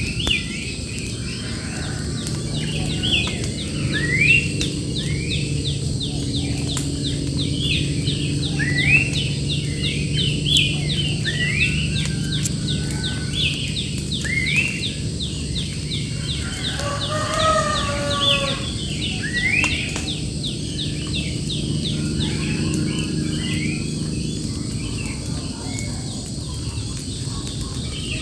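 Birds singing in rural surroundings: repeated rising whistled notes and a fast ticking trill, with a lower, fuller call about two thirds of the way through. A steady high insect-like drone and a low hum run underneath.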